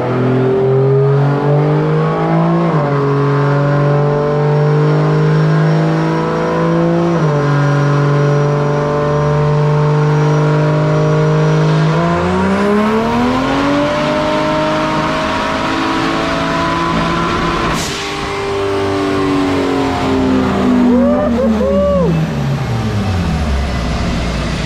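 Turbocharged 2JZ inline-six engine in a Toyota 4Runner running on a chassis dyno. It holds a steady pitch at first, climbs over about two seconds midway to a higher steady pitch, gives a brief sharp noise about two-thirds of the way through, then winds down in pitch near the end.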